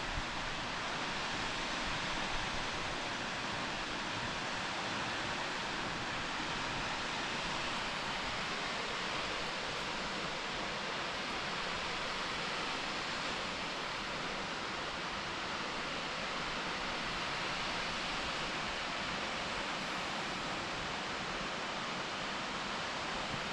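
Steady rushing of a waterfall, an even roar that holds at a constant level throughout.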